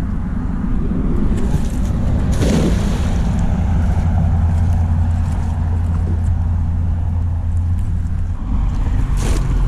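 Small boat's outboard motor running at a steady speed, a low drone that changes pitch about eight and a half seconds in. There are short rushes of noise about two and a half seconds in and again near the end.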